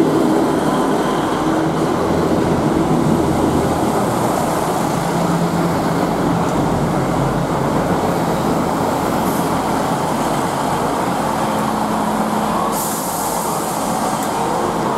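GWR Class 158 diesel multiple unit pulling into the platform, its carriages rolling past with a steady rumble of wheels and underfloor diesel engines. A hiss comes in near the end.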